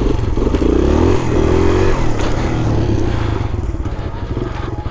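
Kawasaki KLX140 pit bike's single-cylinder four-stroke engine running under throttle while ridden, its pitch rising as it revs up about a second in, then holding fairly steady.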